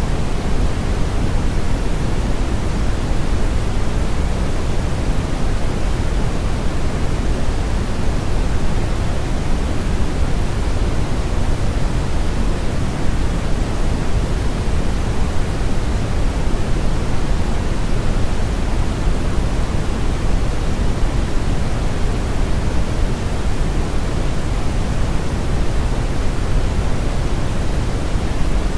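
Synthetic brown noise: a steady, even rumbling hiss, strongest in the low end and falling off toward the highs, with no change throughout.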